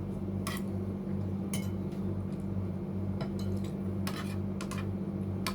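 Spoons and forks clinking now and then against plates while eating, about half a dozen separate clinks, over a steady low hum that pulses about twice a second.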